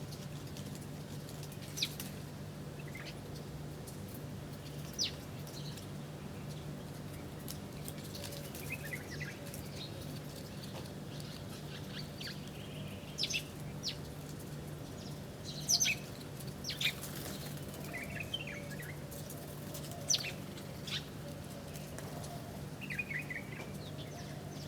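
Small birds giving short, sharp chirps now and then, sometimes two or three in quick succession, over a steady low hum.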